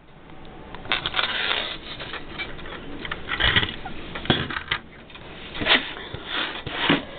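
Plastic Lego pieces being handled and pressed together: irregular clicks, knocks and short rattling scrapes, a few sharper clacks standing out.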